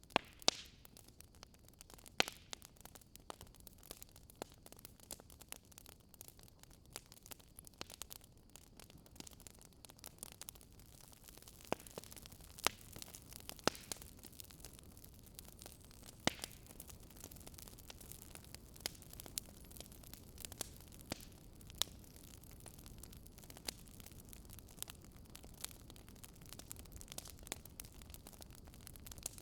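Campfire crackling: a steady faint hiss of burning wood with frequent sharp pops and snaps, a few louder ones standing out.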